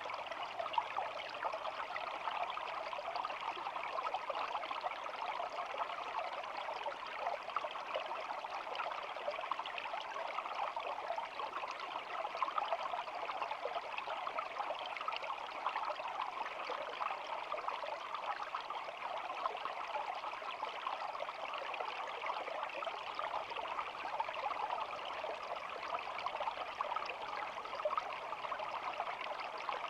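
A shallow stream babbling and flowing steadily over stones, an even, unbroken rush of water.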